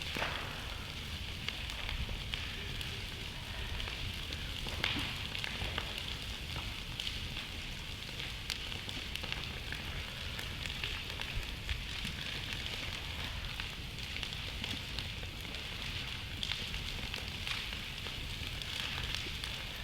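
Large wood bonfire burning, crackling with scattered sharp pops over a steady hiss; one louder pop about five seconds in.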